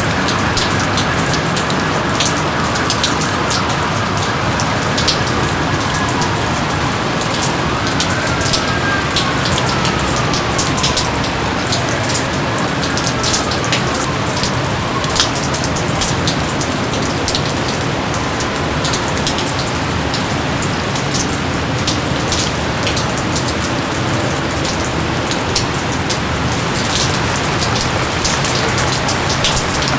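Steady rain falling, with many separate drops striking close by over an even hiss. A few faint falling whistles come in the first half.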